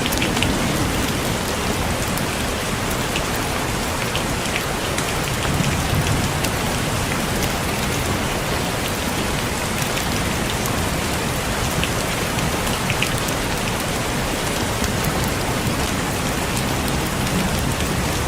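Steady rain falling on a roof, an even hiss with scattered drop ticks, and a few soft low rumbles that swell and fade.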